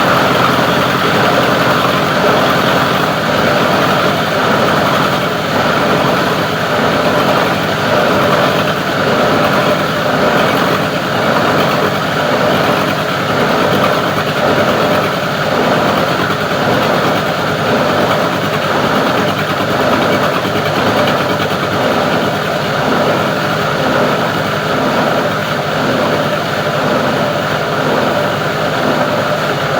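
Plastic recycling grinder machine running steadily with a loud, even mechanical drone.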